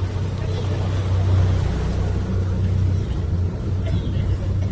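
Canal tour boat's motor running steadily under way, a continuous low hum.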